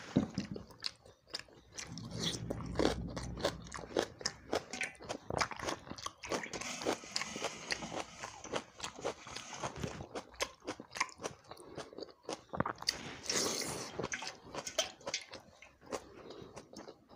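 Close-miked chewing and mouth sounds of a person eating soaked rice and chicken curry, a dense run of short clicks and smacks.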